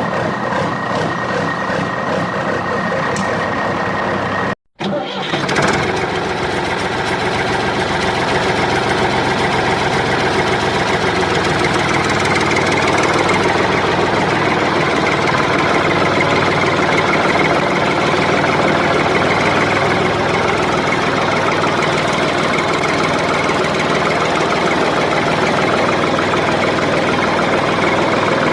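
Tractor engine running steadily, with a brief cut to silence about five seconds in.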